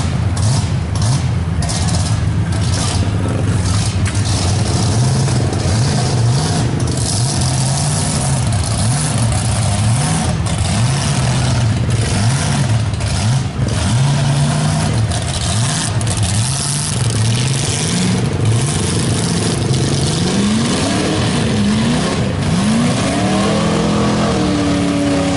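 Mega truck's large engine revving up and down over and over, loud, under a steady rush of noise; near the end the revs sweep higher several times.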